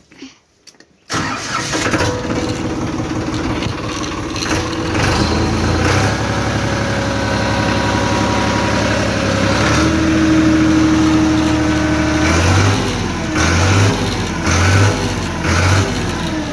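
A tractor engine, unused for many days, catching suddenly about a second in and running steadily. Near the end the engine note surges in a string of short pulses, about one every half second to second.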